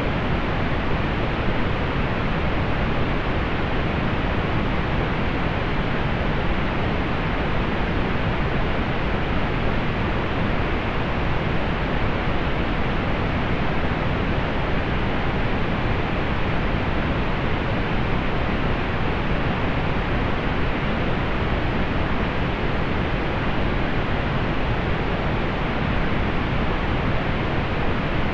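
Steady synthetic pink noise: an even, unbroken hiss with most of its weight in the low end, dulled above the upper mids, unchanging throughout.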